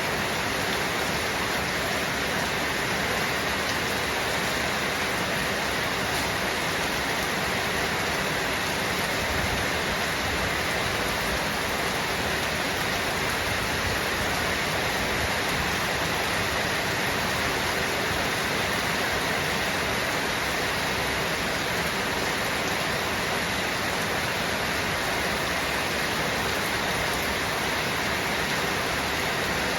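Rain falling steadily, an even, unbroken hiss with no let-up.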